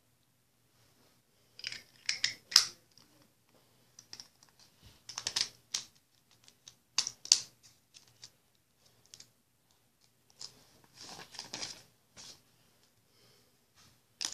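Irregular bursts of sharp clicking and rustling from small objects being handled, in about five clusters with short gaps between them.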